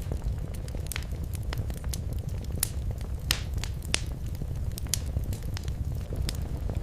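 Wood fire in a fireplace crackling: scattered sharp pops over a steady low rumble of the flames, with a few louder snaps in the middle.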